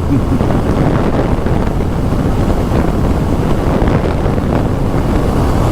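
Steady wind rush buffeting the microphone of a vehicle moving at road speed, with a low road and engine rumble underneath.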